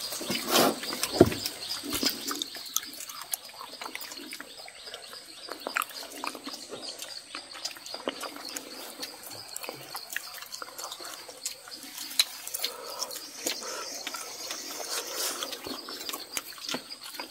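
People chewing and smacking their lips as they eat with their hands, in small irregular clicks and wet smacks.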